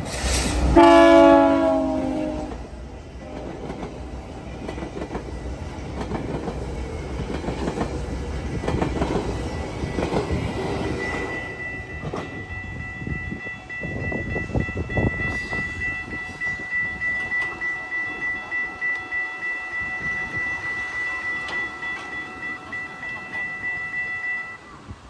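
GO Transit MP54 diesel locomotive's horn sounding a loud chord about a second in, then the train rumbling past with its wheels clacking in a steady rhythm over the track. About halfway through a steady high ringing tone sets in; it stops just before the end.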